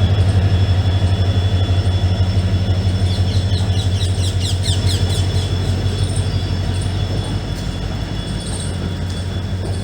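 Indian Railways passenger train running, a steady low rumble of the coach on the track, with a flurry of quick, high wheel squeals about three to five seconds in.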